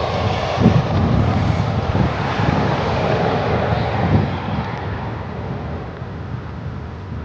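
Wind buffeting the microphone in gusts over a steady rush of air, easing off toward the end.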